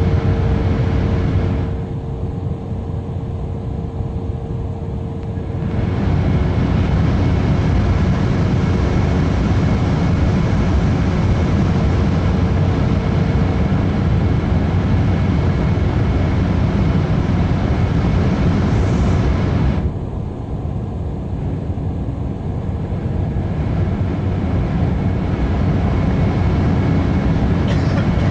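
Embraer 190 jet airliner's turbofan engines and airflow during take-off, a loud steady rushing noise with a steady low hum and a faint steady tone over it. The high hiss drops away twice for a few seconds, near the start and about two-thirds through.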